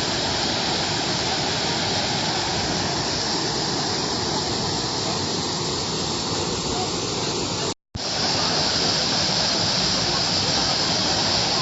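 Waterfall rushing: a steady, dense roar of falling water. It cuts out for a split second about eight seconds in, then carries on slightly brighter.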